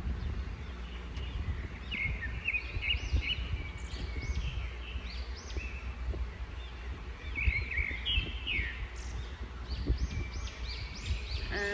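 Birds chirping in groups of short, high calls, over a steady low rumble.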